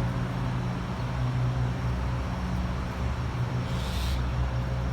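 A steady low engine drone, unchanging throughout, with a short high hiss about four seconds in.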